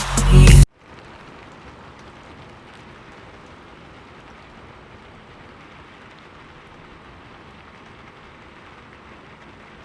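Electronic music cuts off abruptly within the first second, leaving monsoon rain falling steadily as an even hiss.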